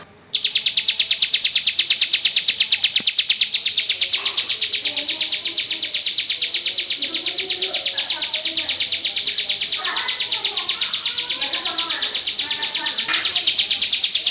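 A masteran (song-tutor) recording of a high-pitched, rapid, evenly pulsed trill. It starts abruptly and goes on without change, with faint chatter beneath it.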